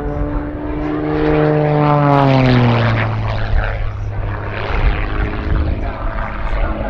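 Rebel 300 aerobatic plane's piston engine and propeller running at display power, its steady drone dropping in pitch about two seconds in and settling lower for the rest.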